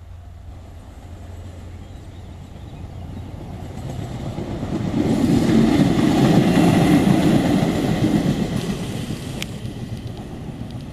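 Regional passenger railcar passing close by: its rumble and the clatter of wheels on rail build up, are loudest about five to eight seconds in, then fade as it moves away.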